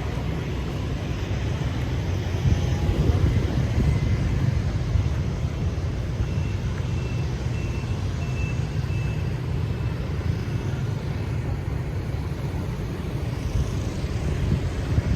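Steady low rumble of street traffic. Around the middle, a faint high beep repeats several times, about two a second.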